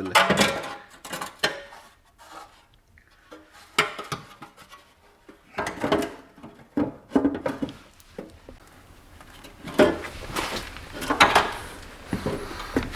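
Hand tools and small metal parts clinking, knocking and scraping at irregular intervals during work on a car.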